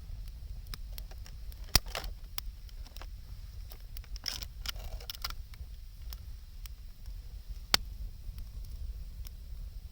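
Wood campfire crackling: scattered small pops and ticks from the burning wood, with two sharp, loud snaps about six seconds apart.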